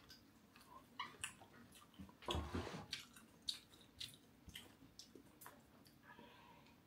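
Faint close-up chewing and mouth sounds of a person eating crispy fried dried catfish: small wet clicks and smacks, with a louder chewing stretch about two and a half seconds in.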